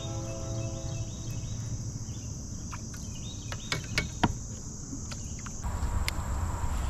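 Insects singing in a steady high buzz with a repeating chirp, broken by a few sharp knocks about three to four seconds in. Near the end the buzz cuts off suddenly and a low rumble takes over.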